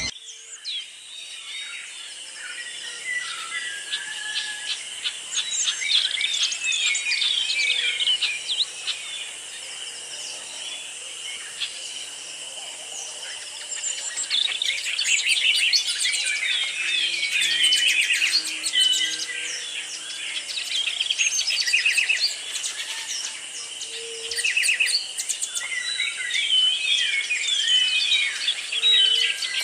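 A flock of small parrots and parakeets chirping and chattering, many calls overlapping, busier from about halfway through, over a steady high-pitched drone.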